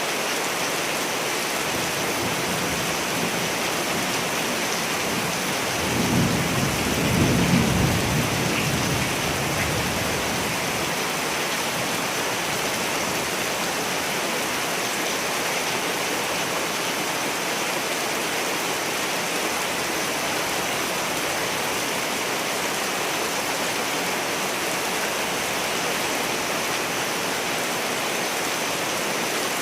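Steady rain falling, with a low roll of thunder swelling about six seconds in and fading out over some four seconds.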